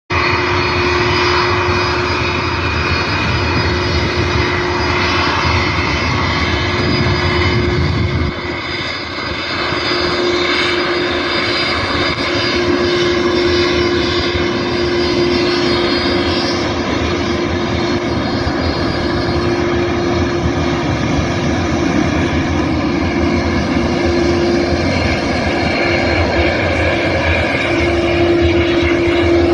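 Qantas Airbus A330 jet engines running at low taxi thrust: a steady jet whine over a broad rush of noise, holding one steady tone, with a brief dip in loudness about 8 seconds in.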